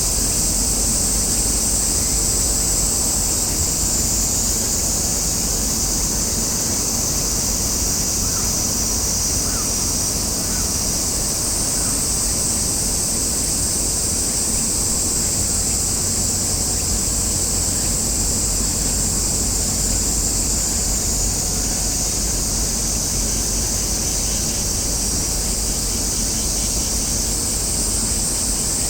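Steady high buzzing of a summer cicada chorus over a low wind rumble on the microphone.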